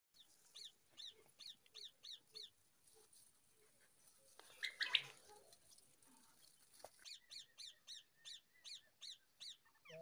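A bird calling a steady series of short, arched, high notes, about three a second, in one run near the start and another in the second half. A brief louder burst comes about halfway.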